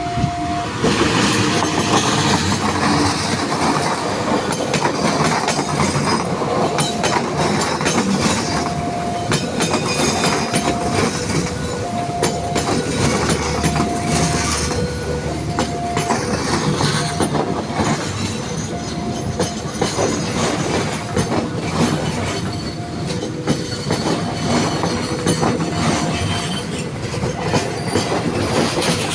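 Locomotive-hauled passenger train passing, its wheels clattering over the rail joints. A short steady tone repeats every couple of seconds through it.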